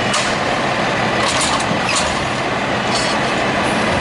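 Garbage truck engine running steadily and loud, with several short hisses over it.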